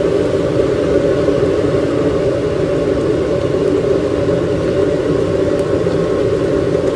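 A steady, loud mechanical whir over a low rumble, unchanging throughout.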